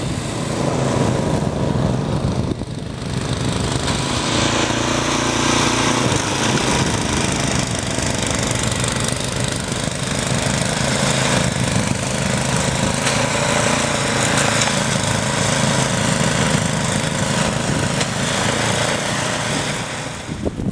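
Small gasoline engine of a snowblower running steadily while clearing drifted snow, its pitch shifting a little now and then.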